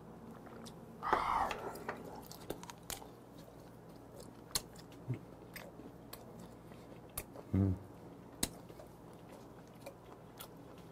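Close-miked mouth sounds of a person chewing semi-dried herring gwamegi: small wet clicks and crunches scattered throughout. There is a louder breathy sound about a second in and a short low hum of the voice at about seven and a half seconds.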